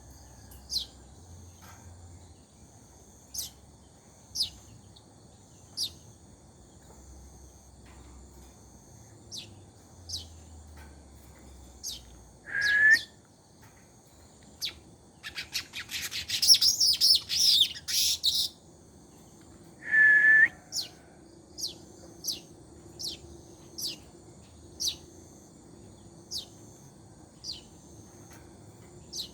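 Weaver birds (burung manyar) calling: short, sharp chirps that fall in pitch come every second or two. Two louder, lower held notes break in, and a burst of rapid chattering song comes about halfway through.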